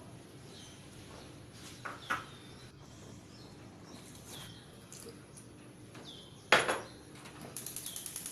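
Cookware knocking in a kitchen: two light clinks about two seconds in and one loud clank about two-thirds of the way through, followed by a fast, even ticking near the end. A short falling chirp repeats every couple of seconds throughout.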